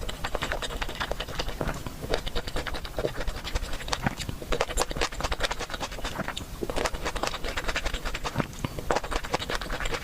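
Close-miked eating sounds: chewing and mouth noises, a dense, irregular run of small clicks and crackles.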